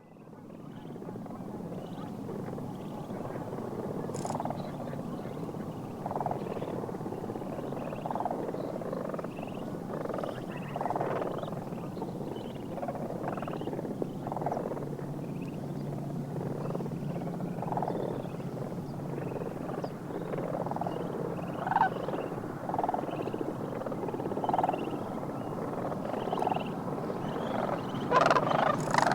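Large mixed flock of snow geese and sandhill cranes calling continuously, many overlapping honks and calls, growing louder near the end.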